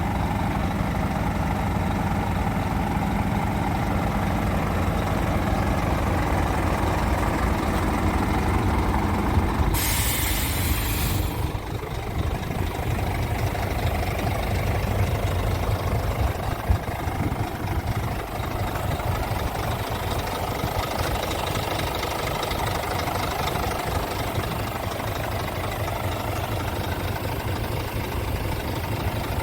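Scania P truck's diesel engine idling steadily, with a loud hiss of compressed air from the truck's air system lasting about a second and a half near the middle.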